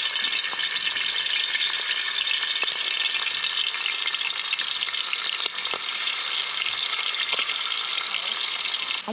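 Prawns deep-frying in hot coconut oil in a pan, sizzling and crackling steadily, with a few faint knocks.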